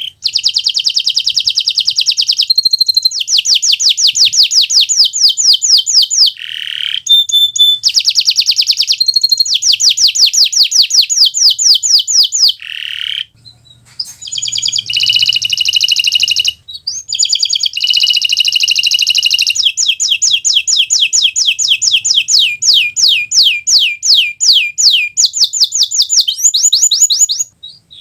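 Kenari Nusantara canary singing in full song: long phrases of fast trills and rapidly repeated high notes, with short breaks between phrases.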